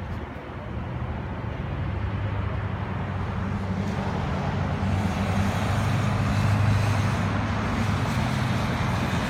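A motor vehicle's engine running, with road noise, growing louder over the first several seconds, strongest about two-thirds of the way in, then easing slightly.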